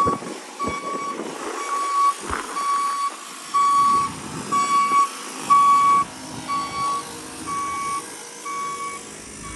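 Reversing alarm of a small park-clearing vehicle: a steady series of even, same-pitched beeps, a little more than one a second, over its engine running and a few low knocks.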